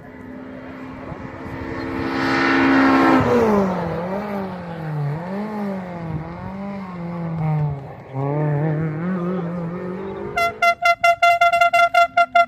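A rally car's engine at full throttle. It comes closer and is loudest about two to three seconds in, then its pitch swings up and down with the gear changes and throttle as it drives on. Near the end there is a quick run of short blasts at one steady pitch, about five a second.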